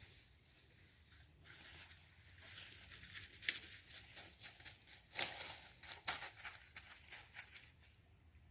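Faint rustling and crackling of dry leaves and brush underfoot in irregular bursts, sharpest about three and a half and five seconds in.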